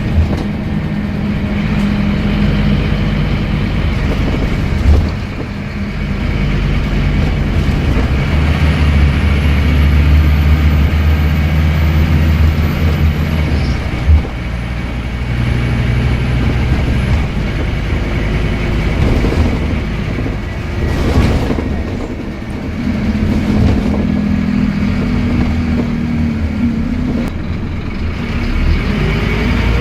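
Scania N230UD double-decker bus running, its five-cylinder diesel and whiny ZF Ecomat automatic gearbox changing note as it pulls and shifts. There are two sharp knocks, and near the end a rising gearbox whine as the bus accelerates.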